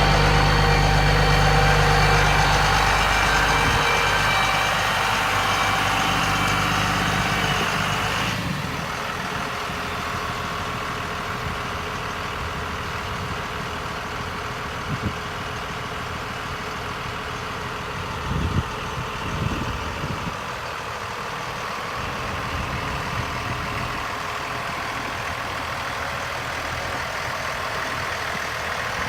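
Catering truck's engine running at idle. For the first eight seconds or so a louder running sound with several steady whining tones lies over it, then stops suddenly, leaving the steady idle.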